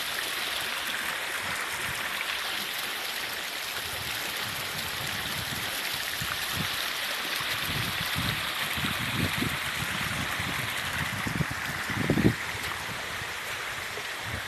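Shallow monsoon stream flowing steadily over stones, a continuous rushing and babbling of water. A few short low thuds come in the second half, the loudest about twelve seconds in.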